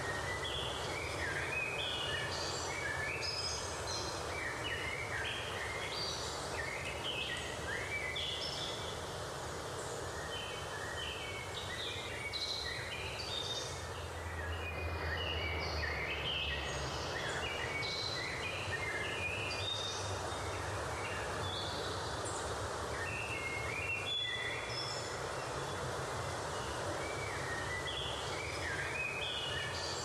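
Several birds chirping and singing in short, overlapping phrases over a steady background hiss.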